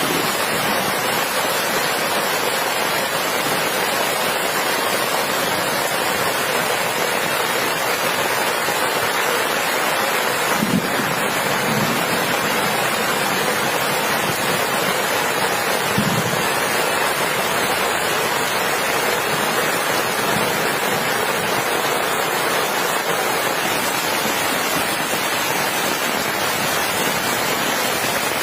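Heavy rain falling steadily as a dense, even hiss, with a few brief low thumps near the middle.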